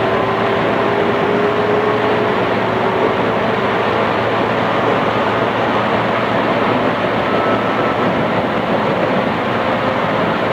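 Running noise inside a JR East 211 series electric train car: a steady rumble of wheels on rail with a faint motor whine that rises slowly in pitch as the train picks up speed.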